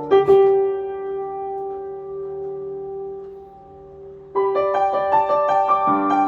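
Piano playing a slow ballad: a chord struck just after the start rings and fades for about four seconds, then a new chord comes in with a run of evenly repeated notes.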